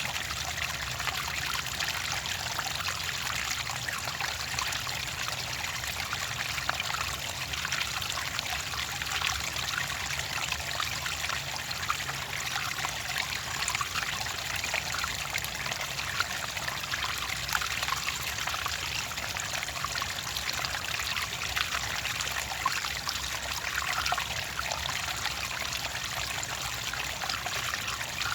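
Clear water trickling steadily, a continuous even flow with fine splashing detail.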